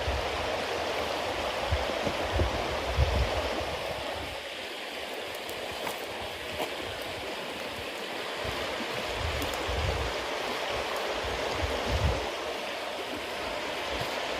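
Bonfire of wet cedar leaves and damp wood burning with a steady hiss, broken by a few small crackles and pops and some irregular low rumbles.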